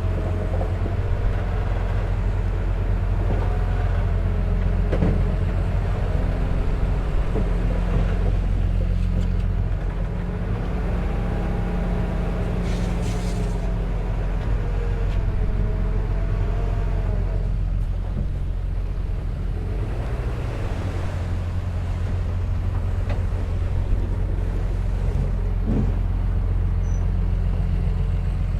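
Diesel engine of earth-moving machinery running steadily, with wavering higher tones over the low drone.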